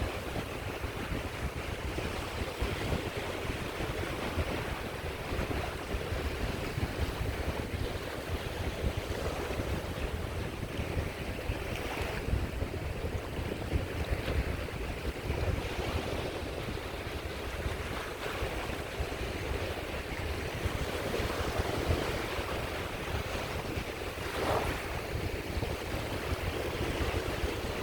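Sea waves washing steadily onto the shore, with wind buffeting the microphone.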